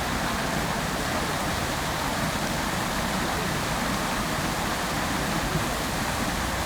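Fountain water splashing steadily into its basin, an even rushing hiss with no changes.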